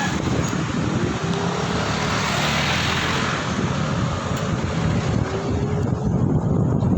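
Wind buffeting the microphone during a road ride, over a steady rumble of traffic and vehicle noise.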